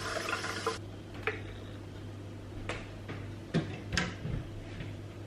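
Water running from a kitchen tap cuts off about a second in. A handful of light, separate clicks and knocks follow as kitchen things are handled.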